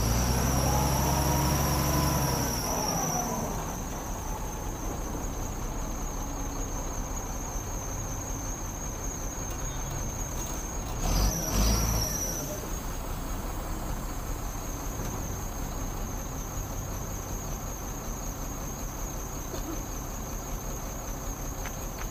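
A heavy diesel engine runs loud for the first few seconds, its pitch rising and falling before it fades, with a second short loud burst about eleven seconds in. Insects trill steadily at a high pitch underneath.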